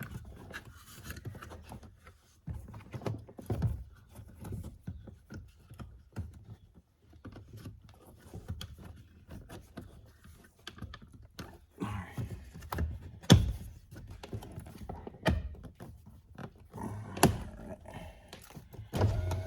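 Irregular knocks, clicks and clatter of car door parts and screws being handled, with two sharp, loud knocks about two-thirds of the way through and near the end.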